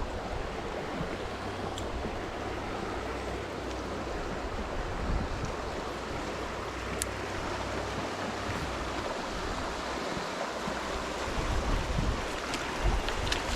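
Steady rush of running stream water, with a low wind rumble on the microphone and a few faint knocks near the end.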